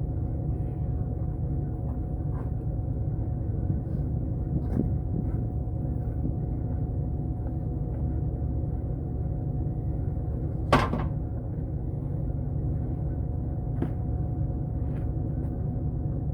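A steady low rumble with a few light clicks, and one sharp knock, like a door or latch banging shut, about eleven seconds in.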